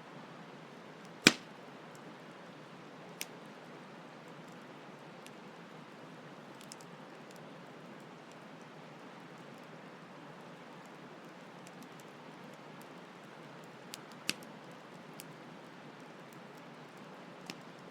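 Campfire crackling with a handful of sharp pops, the loudest about a second in, over a steady hiss of flowing stream water.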